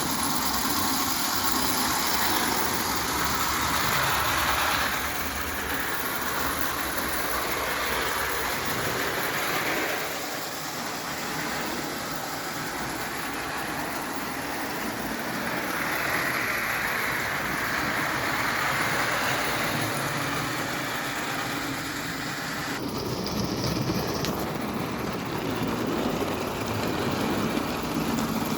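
Märklin live steam 0 gauge tank locomotive hissing steam steadily, the hiss changing in tone several times.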